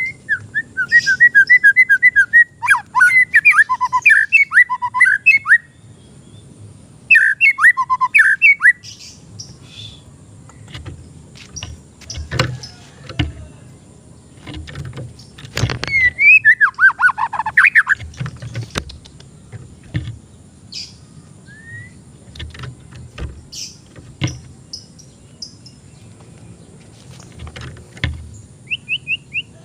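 White-rumped shama (murai batu) singing in three bursts of rapid, sharply gliding whistled notes: at the start, again after about seven seconds, and again around sixteen seconds. Sharp clicks or knocks are scattered through the quieter stretches between the songs.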